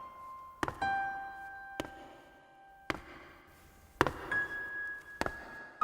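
Background music: a slow melody of single piano-like notes, each struck sharply and left to ring out.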